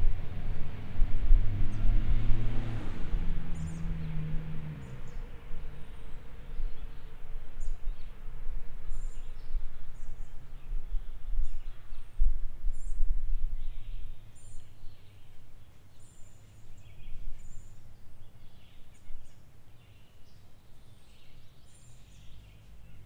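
Birds chirping in short, repeated calls over an outdoor rural ambience. A low rumble is heavy for the first few seconds and then fades away.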